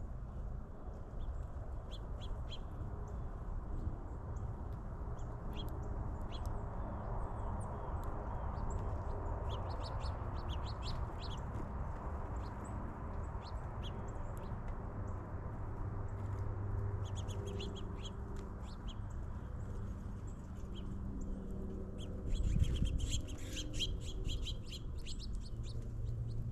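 Small birds chirping at backyard feeders: short high calls come in scattered bunches, busiest near the end, over a steady low background rumble.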